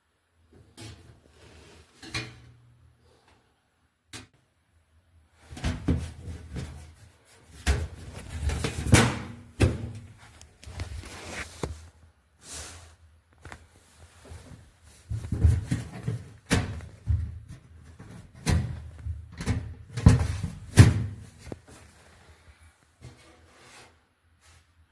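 A series of irregular knocks, thuds and scrapes, like objects being handled and moved around. It is sparse at first, then busy and loud from about five seconds in until shortly before the end.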